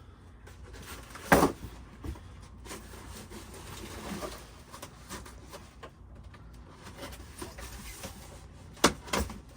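Handling noises from unpacking a boxed soundbar: a loud knock about a second in, light rustling and small bumps, then two sharp knocks in quick succession near the end.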